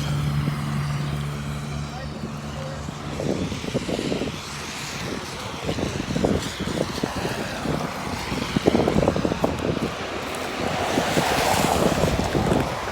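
Street traffic on a wet road: a vehicle's engine hums steadily and fades out after about three seconds, then a car's tyres hiss past on the wet pavement near the end, while wind buffets the microphone.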